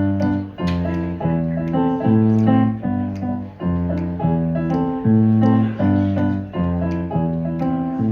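Keyboard playing an instrumental break: low bass notes under chords in a steady rhythm.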